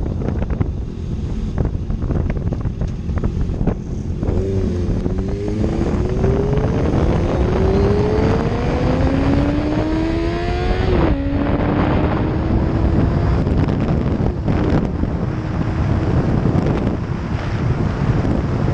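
Heavy wind buffeting the microphone while riding, over a motorcycle engine that climbs steadily in pitch for about six seconds, drops sharply on a gear change, then pulls up again more gently.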